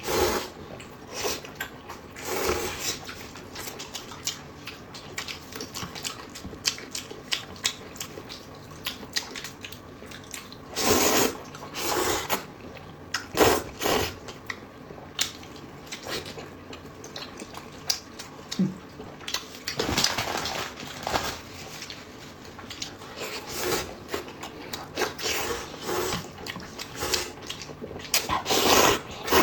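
Close-up eating sounds: chewing and slurping of sticky noodles and meat, with many short wet mouth clicks and smacks and several louder slurps spread through.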